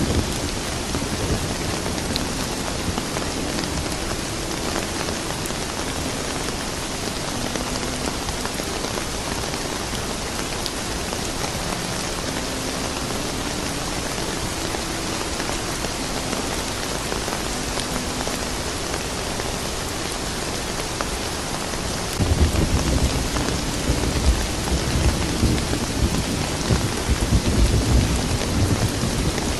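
Steady rain falling, an even hiss, with a low thunder rumble rolling in about three-quarters of the way through and carrying on.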